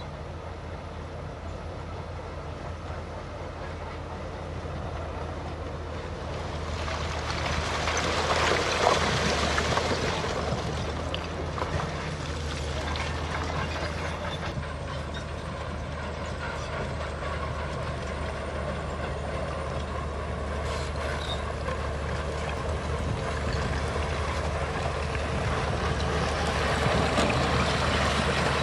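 Diesel engine of heavy earthmoving equipment running steadily, with a louder rush of grinding noise about seven to ten seconds in and again near the end.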